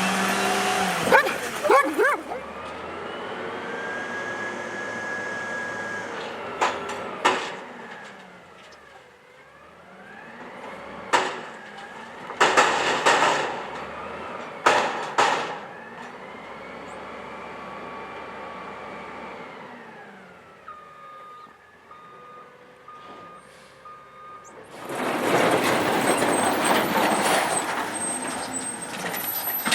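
Garbage truck working a curbside pickup: a hydraulic whine that rises, holds and rises and falls again as the lifting gear cycles, broken by several sharp bangs of the can being dumped and set down. Near the end a loud rushing noise from the truck.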